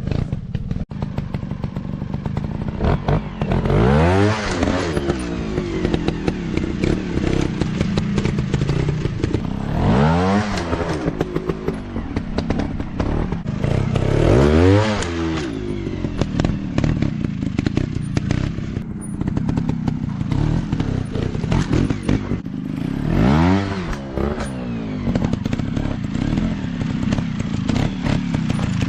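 Dirt bike engine revved hard about four times, the pitch climbing quickly each time, with lower running between the revs and scattered knocks and clatter.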